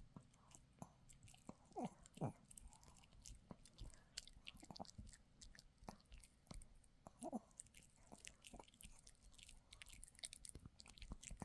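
A dog gnawing and chewing on a dog chew, with irregular wet clicks and crunches of teeth on the chew. Short falling squeaks come twice, about two seconds in and again near seven seconds.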